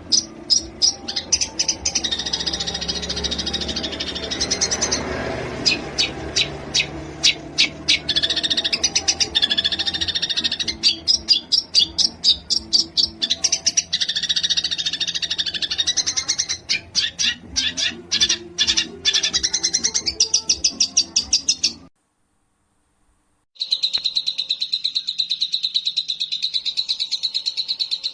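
Recorded songbird song of the kind played to train a long-tailed shrike: quick strings of sharp repeated notes and chattering phrases. A sudden cut to silence about 22 seconds in is followed by a steady high trill.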